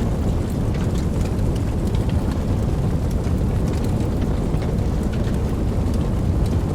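Steady rain, with a deep, even rumble underneath and scattered sharp drop ticks on top.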